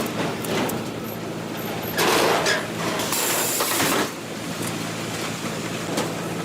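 Sawmill machinery running: a steady machine hum under rattling and scraping noise, with louder surges of noise about two seconds in and again from about three to four seconds in.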